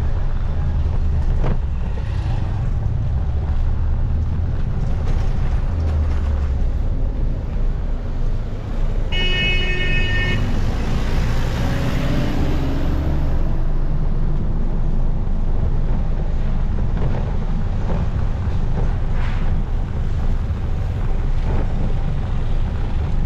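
Riding a motorcycle through city traffic: a steady low rumble of engine and road noise, with a vehicle horn honking once for about a second and a half, about nine seconds in.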